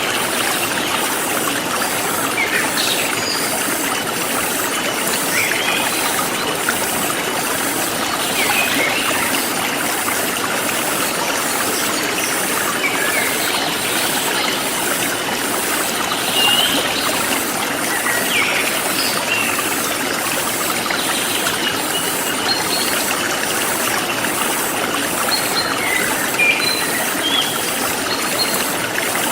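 Forest stream flowing steadily, with scattered short bird chirps and a high insect trill pulsing about twice a second.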